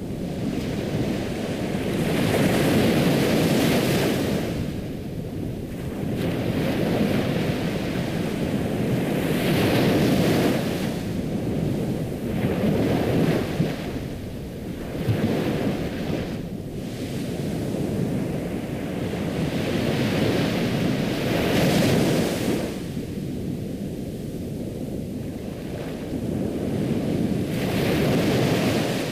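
Ocean surf washing onto a shore, the waves swelling and ebbing every few seconds.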